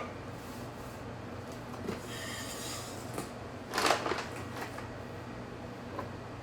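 Kitchen handling noises while a breading station is set up: a few small clicks, a brief rustle a couple of seconds in, and a louder clatter about four seconds in, over a low steady hum.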